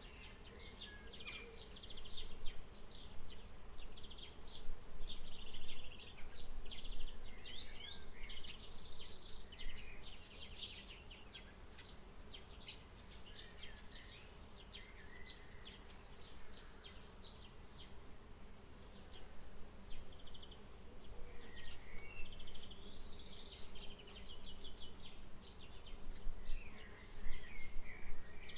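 Small birds chirping and twittering: busy runs of short, high calls that thin out in the middle and pick up again near the end, over a faint steady buzz.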